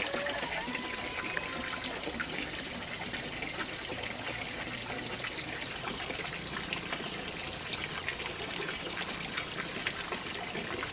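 Water trickling and pouring steadily, with many small crackles and ticks through it.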